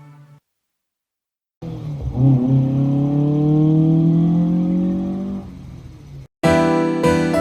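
Car engine and exhaust accelerating, its pitch climbing steadily for a few seconds before fading away.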